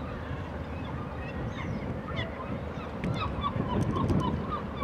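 Loaded coal train of hopper wagons rolling past with a steady low rumble, while a flock of birds keeps up many short calls, several a second, thickest in the second half.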